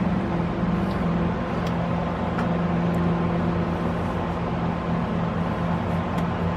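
Steady mechanical hum of a running motor or engine, holding a constant low droning pitch.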